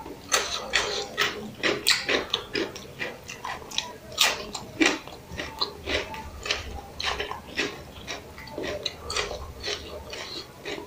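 Close-up chewing and lip-smacking of a person eating biryani by hand: a steady run of irregular wet mouth clicks, several a second.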